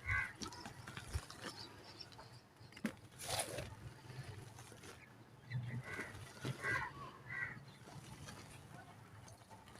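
Dried mud cake being crumbled by hand: small scattered crackles, with a short rustling crumble about three seconds in. Short calls sound in the background near the start and three times in quick succession between about six and seven and a half seconds in.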